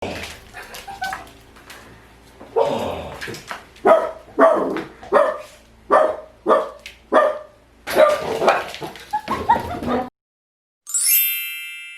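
Dogs barking and yipping, with a run of sharp barks about two a second in the middle, then a stretch of more crowded calling. Near the end, after a short gap, a bright ringing tone starts and fades.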